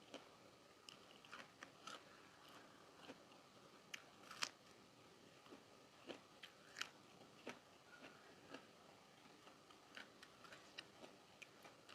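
Close-up chewing of crunchy raw vegetables in karedok, a Sundanese salad with peanut sauce: faint, irregular crunches and wet mouth clicks, with one louder crunch about four seconds in.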